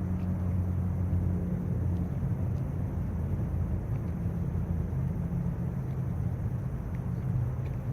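A motor vehicle's engine running nearby: a steady low rumble with a hum that wavers slightly in pitch.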